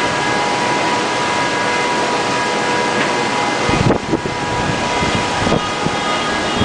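Steady rushing of an overflowing river and typhoon wind, with a stronger low buffet of wind on the microphone about four seconds in.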